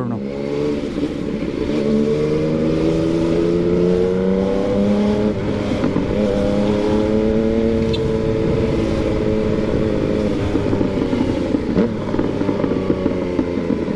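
Yamaha MT-09's three-cylinder engine under way, its note rising slowly for the first five seconds or so, then easing off and falling gradually as the bike slows.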